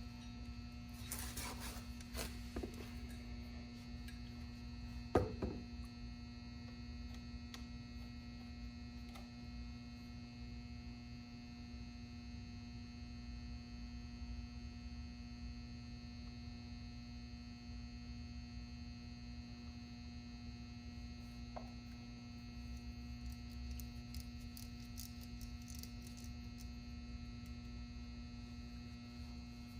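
Steady low electrical hum, with a few faint clicks and one sharper knock about five seconds in.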